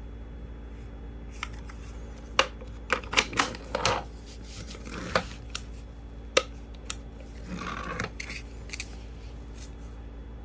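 Hands handling a cordless angle grinder and its parts on a workbench: scattered sharp clicks and light knocks of plastic and metal, with a short rustle near the end, over a steady low hum.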